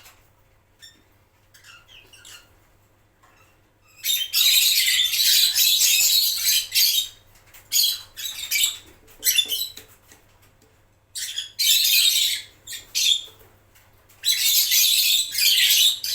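Lovebirds squawking in harsh, high-pitched bouts of one to three seconds, four times, with quiet gaps between.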